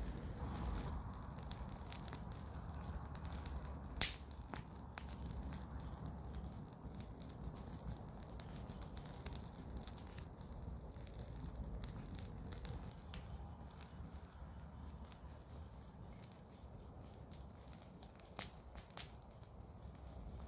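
Garden-waste bonfire burning, wood and leaves crackling with irregular pops over a low steady rumble; one sharp, loud pop about four seconds in.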